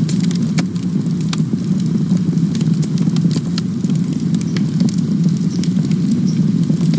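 Wood campfire crackling and popping: scattered sharp snaps over a steady low rumble of burning.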